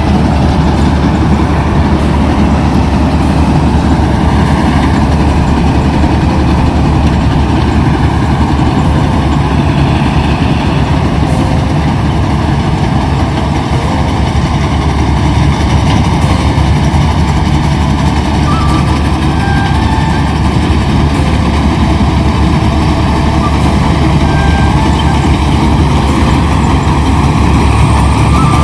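Kubota combine harvester running steadily at working speed, a loud, continuous drone of engine and machinery.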